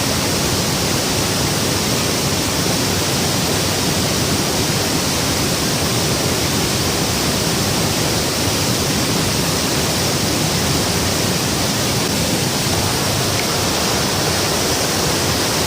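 Waterfall rushing close by: a loud, steady hiss of falling water that does not change.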